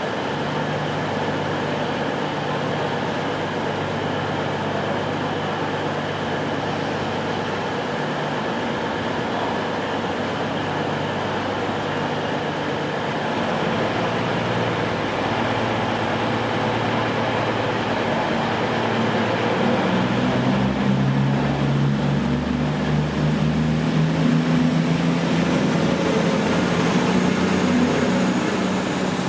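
Diesel train engine running at a station platform, a steady low throb. The engine note shifts about halfway through and grows louder and deeper over the last third.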